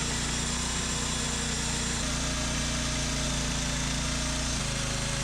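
Log sawmill's engine running steadily while it saws, with small shifts in pitch about two seconds in and again near the end.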